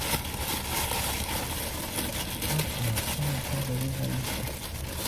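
Car engine idling with a steady low rumble, with a brief low murmur of a voice about two and a half seconds in.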